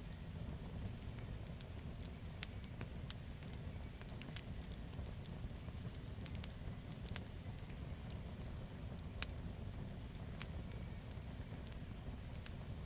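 Campfire burning with a steady low rumble and irregular sharp crackles and pops from the burning wood.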